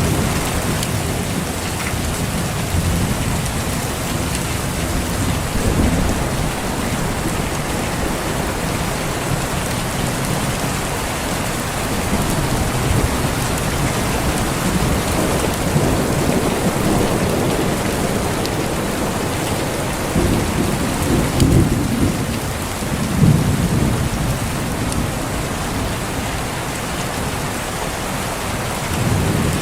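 Steady heavy rain falling, with rolling thunder rumbling underneath that swells loudest about two-thirds of the way through.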